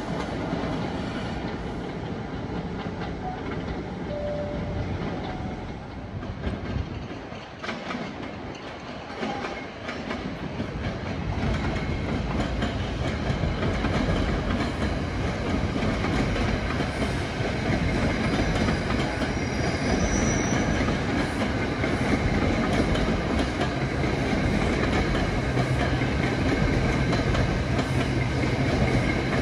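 A passenger train rolling past on the track, steel wheels clicking over the rail joints in a steady clickety-clack. The sound dips briefly about a quarter of the way in, then comes back louder, and a steady low hum joins near the end.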